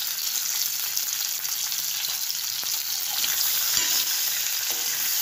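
Whole pointed gourds sizzling in hot mustard oil in a stainless steel pan, with a metal spoon stirring them against the pan.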